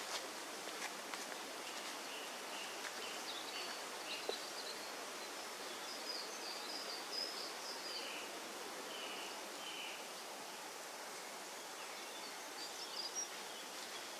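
Woodland ambience: a steady rustling hiss with faint, scattered bird calls through the middle.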